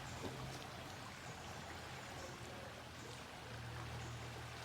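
Faint river water flowing and trickling, with a steady low hum underneath that grows a little louder about three and a half seconds in.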